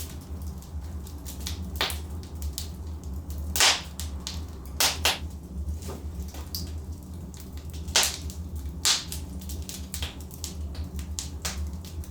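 Wood logs burning in a fireplace, crackling with irregular sharp pops over a steady low rumble. The two loudest pops come about three and a half and eight seconds in.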